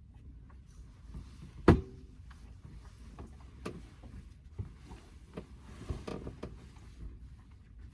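Scattered knocks and clunks of someone moving about inside a camper van, with one sharp thump about two seconds in and lighter knocks and clicks after it.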